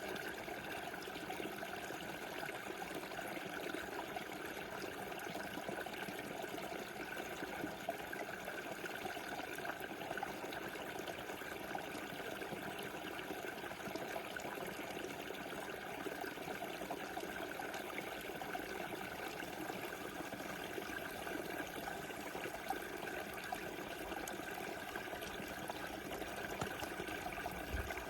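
A small river rushing and trickling over stones in a steady flow.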